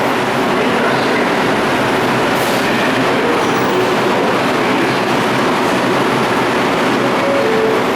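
New York City Subway R142 train running on the rails, a steady loud rumble of wheels and motors.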